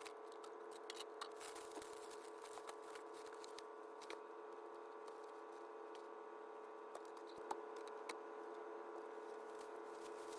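Faint steady hum made of several fixed tones, with scattered light clicks and ticks.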